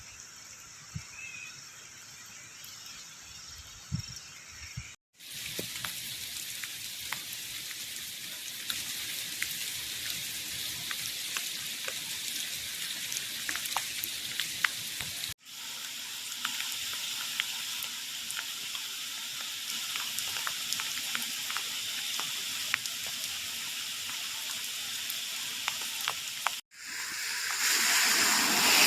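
Steady rain falling, a dense crackling patter of drops. It cuts out abruptly a few times and is lighter in the first few seconds.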